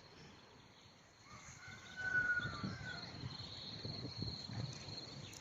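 Faint outdoor ambience: a steady, high, thin insect-like trill over several seconds, a short whistled call in the middle, and low rustling.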